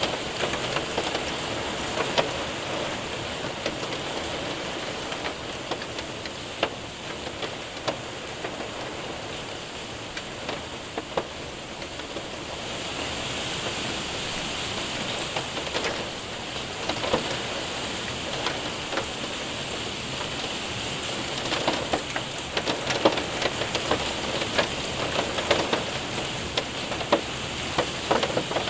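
Rain and hail hitting a window and roof: a steady hiss of rain with many sharp ticks of hailstones striking, the strikes coming thicker and harder in the last third.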